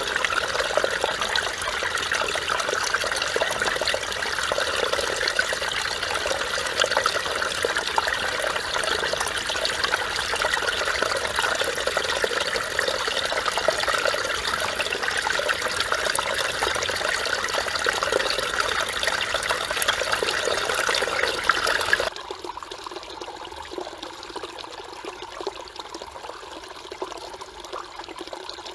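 Mountain stream water rushing and burbling over rocks in a steady flow. About three-quarters of the way through it drops suddenly to a quieter, softer flow.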